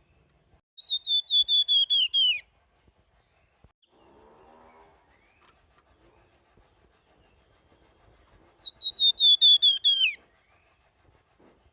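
A flamboyan songbird singing two phrases, each a quick run of about ten high whistled notes that slides down in pitch at the end. The first comes about a second in, the second some seven seconds later.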